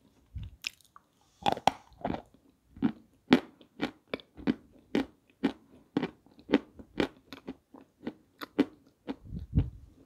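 Crunching and chewing of dry, crumbly pieces of peschanka, an edible clay, in a steady run of about two crunches a second.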